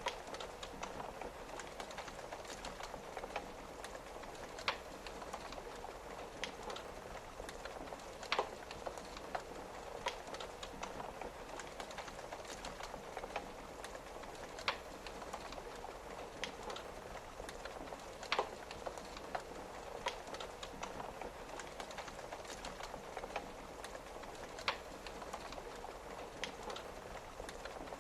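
Steady rain pattering on a window with a wood fire crackling, a sharp pop every few seconds.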